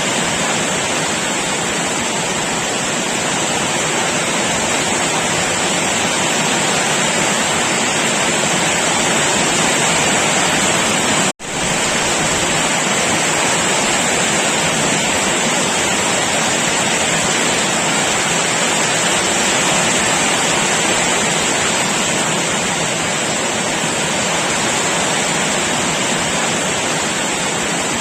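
Heavy rain falling steadily, an even downpour hiss. It cuts out for an instant about eleven seconds in and comes straight back.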